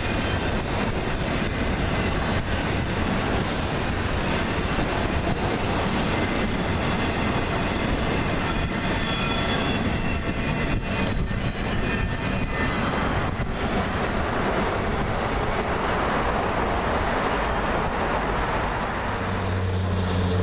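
Freight train cars rolling past: a steady rumble of steel wheels on rail, with faint wheel squeal and occasional clicks. A low steady hum comes in near the end.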